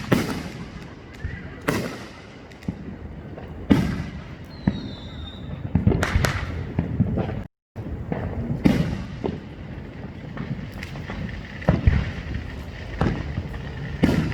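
Neighborhood consumer fireworks going off repeatedly: loud echoing bangs every second or two, with smaller crackling pops between them and a brief high falling whistle about five seconds in. The sound cuts out for a split second about halfway through.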